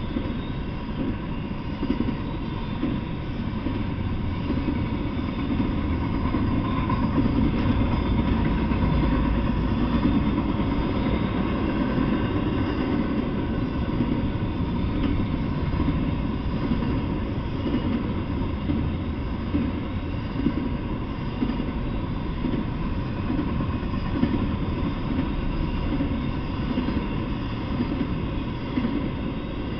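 Double-stack intermodal freight train rolling past: a steady rumble of the well cars' wheels on the rails.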